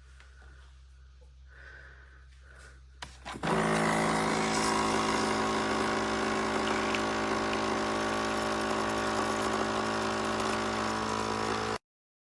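Two clicks, then a Nescafé Dolce Gusto capsule coffee machine's pump starts up with a loud, steady buzz that runs for about eight seconds and cuts off suddenly.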